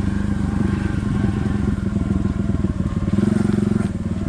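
Pit bike's small single-cylinder engine running under way as it is ridden along a dirt track, the engine note picking up and louder again about three seconds in.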